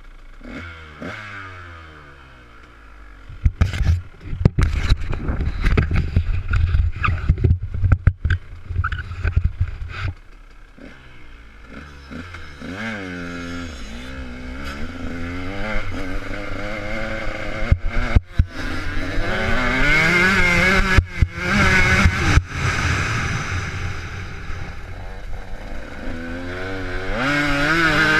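Motocross motorcycle engine revving hard and easing off over and over, its pitch rising and falling repeatedly. Sharp clattering knocks come thick and fast in the first third.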